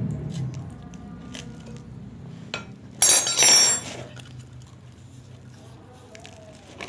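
Metal pump parts clinking and rattling as they are handled and fitted together. A few light clicks are followed by a loud burst of ringing metallic clinks about three seconds in.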